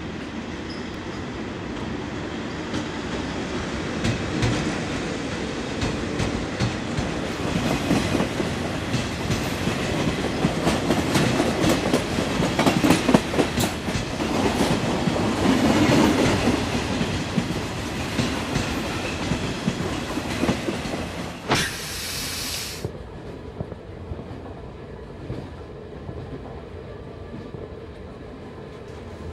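Passenger train running on the rails: a rumble full of sharp wheel clicks that builds up over the first half, with a brief loud hiss about three-quarters of the way in. After that it settles into a quieter, steady rumble, as heard from inside the carriage.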